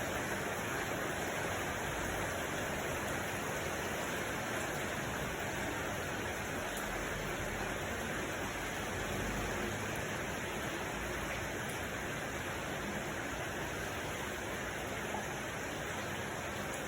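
Steady, even rushing noise with no distinct events, like relaxation-track ambience of rain or running water.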